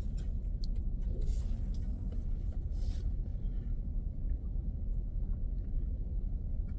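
Steady low rumble of a car on the move, with a few faint ticks over it.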